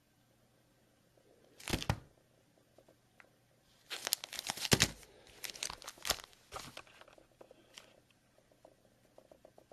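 Cardboard and wrapper packaging of a trading-card mini box being torn open: a short rip, then a longer run of tearing and crinkling about four seconds in, dying down to faint rustles.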